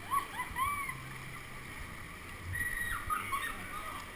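Steady rush of whitewater on a man-made kayak course, with a few short chirping, whistle-like notes near the start and again about halfway through.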